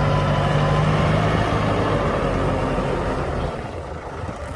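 Tractor engine running as it works loading palm kernel feed, easing off about three and a half seconds in.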